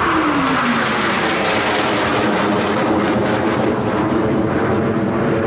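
Blue Angels F/A-18 Hornet jets flying past: a whine drops in pitch in the first second as one jet passes, followed by a steady, loud jet roar.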